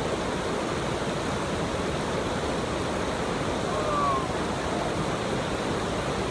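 Steady rush of river water flowing over rocks or a drop, an even, unbroken noise.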